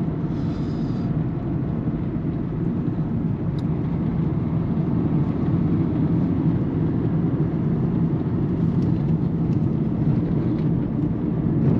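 Steady in-cabin road and engine noise from a 2008 Peugeot 207 1.4 turbo diesel on the move, with no suspension clunk over the road: the new sway bar links appear to have cured the metal-to-metal clunk.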